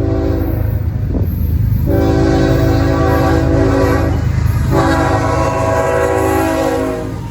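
Diesel freight locomotive's air horn sounding a multi-note chord in separate blasts: one ending about half a second in, a short toot just after a second, then two long blasts of about two and a half seconds each. A steady low engine rumble runs underneath.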